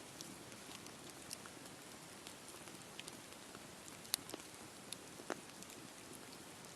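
Wood campfire burning, with a soft steady hiss and scattered sharp crackles and pops, the loudest about four seconds in and again a second later.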